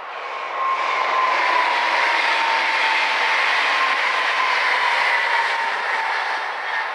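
A train passing close by: a loud rushing run of rail noise that swells up about half a second in and holds, with a thin steady tone through it that drifts slightly lower.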